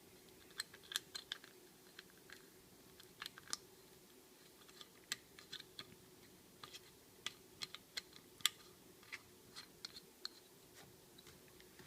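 Scattered light clicks and taps at an irregular pace, a few each second, over a faint steady hum.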